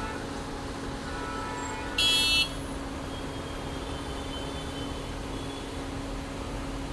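Steady drone of heavy machinery and traffic at a construction site, with one short, high-pitched horn blast about two seconds in.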